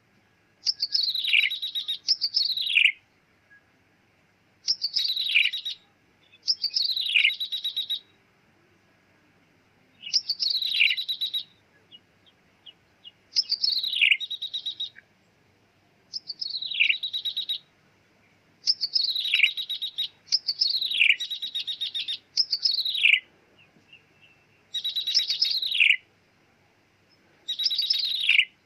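Ciblek tebu (a prinia) song from a bird-trapping lure recording: short phrases of about a second, each a fast buzzy trill ending in a falling note, repeated every couple of seconds.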